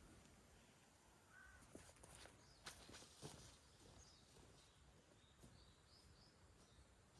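Near silence: faint outdoor ambience with a few faint scattered clicks and a short series of faint high bird chirps in the second half.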